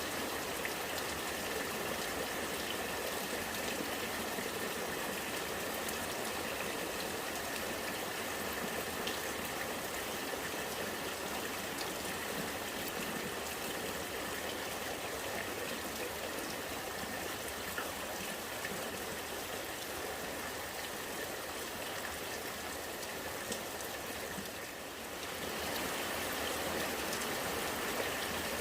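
Rainwater running and gurgling steadily, with raindrops pattering, dipping briefly near the end.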